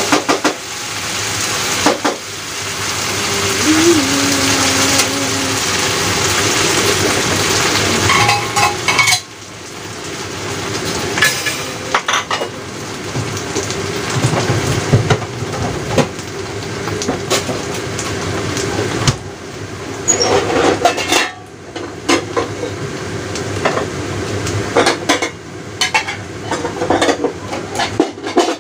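Beef and shiitake mushrooms sizzling in a frying pan, with a wooden spatula scraping and knocking against the pan as they are stirred. The hiss of the frying is strongest for the first several seconds and drops sharply about nine seconds in, leaving a quieter sizzle with scattered clicks and knocks.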